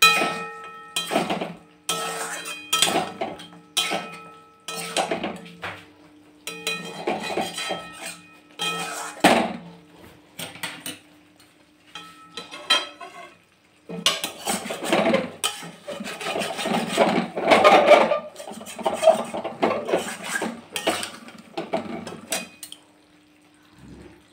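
A spatula scraping and knocking against a kadai as chicken is stirred and sautéed (kosha) with fried-onion paste, in repeated strokes, with a lull of a few seconds about halfway through and a dense run of stirring afterwards.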